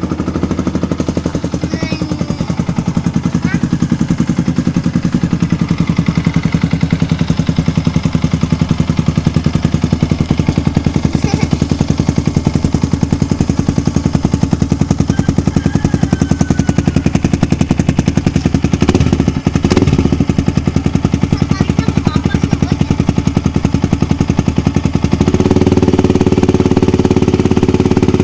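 Yamaha R15's single-cylinder four-stroke engine idling steadily through an aftermarket NOBI Neo S exhaust, just after being started. It gets louder about 25 seconds in.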